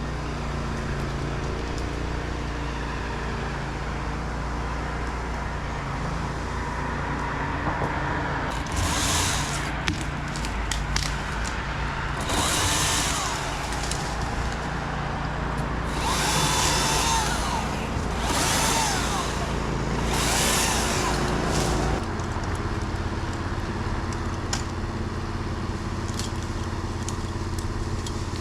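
Steady engine drone with about five short, noisy power-tool bursts of about a second each, between about 8 and 22 seconds in; the drone shifts near the end of them.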